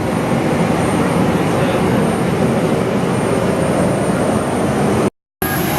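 Steady, loud drone of a running aircraft engine, with a thin high whine over it. It drops out completely for a split second near the end, then resumes.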